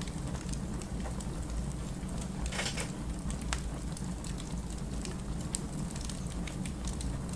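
Burning firewood crackling: scattered sharp pops over a steady low rumble, with a brief denser burst of crackling about two and a half seconds in.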